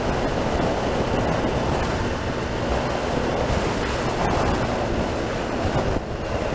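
Steady wind rush over a full-face motorcycle helmet at about 40 mph with the visor open one click, picked up by a microphone inside the chin guard behind fake fur. A low motorcycle engine hum runs underneath.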